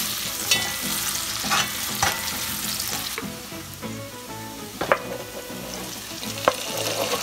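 Sliced onions and garlic sizzling in hot oil in an aluminium pot, stirred with a metal ladle. The ladle gives a few sharp knocks along the way.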